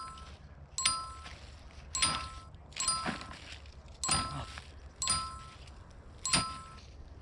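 A bell-like metallic ding, struck about six times at roughly one a second. Each strike rings with the same clear high tones and fades before the next.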